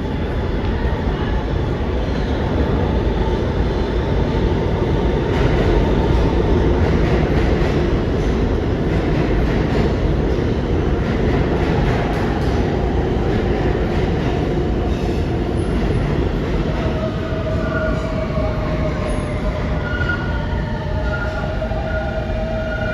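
R68 subway train running along the platform, with a steady rumble and rattling. In the last few seconds steel wheels start squealing on the rail with high steady tones.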